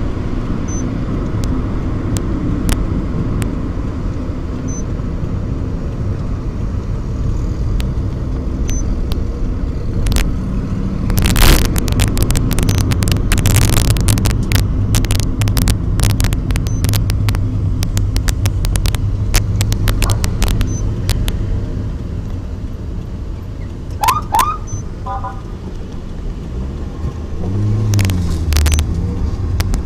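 Road traffic of a police-motorcycle-escorted convoy: engines running with a steady low rumble and road noise, louder for a stretch in the middle, with scattered sharp clicks. Two short rising chirps come about three-quarters of the way through, and a low tone rises and falls near the end.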